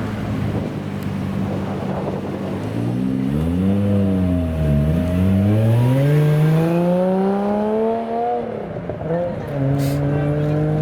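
Car engine accelerating. It holds a steady note at first, then the revs rise, dip briefly and climb for several seconds before dropping sharply near the end, as at a gear change, and climbing again.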